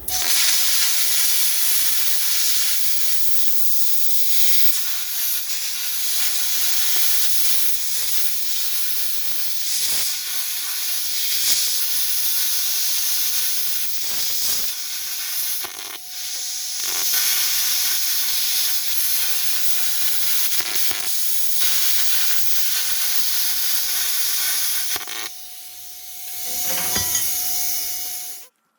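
Cutting torch hissing steadily as it cuts through steel plate, with a brief dip past the middle, a short stop near the end, then a last burst that cuts off sharply.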